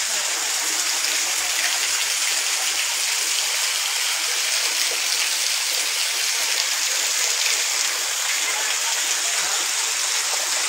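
Heavy rain pouring down steadily, with water streaming off a roof edge; an even, unbroken rushing hiss.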